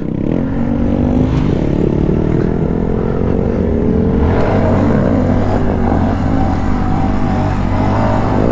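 Motor vehicle engines running and revving, their pitch slowly falling over the first few seconds. About four seconds in, another engine's pitch starts rising and falling over a steady low drone.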